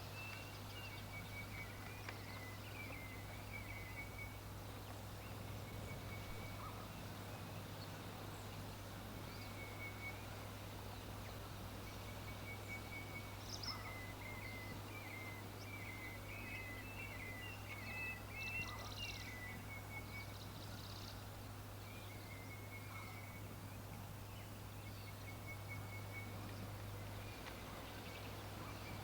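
Birds chirping in short, repeated trilling phrases, faint against a low steady hum.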